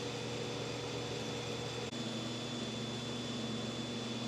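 Steady background hum and hiss with a faint constant high whine, like ventilation noise. A brief dropout comes about two seconds in, after which the low hum shifts in pitch.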